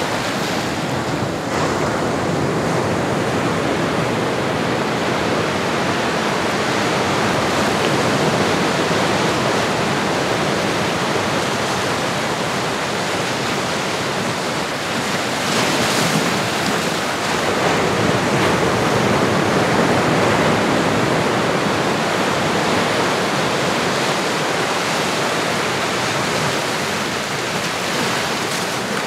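Ocean waves washing ashore, a steady rush of surf that swells and eases gently every few seconds.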